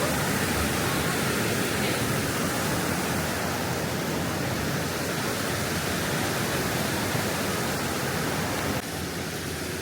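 Steady rushing of a waterfall, a dense, even wash of falling water, dipping slightly in level near the end.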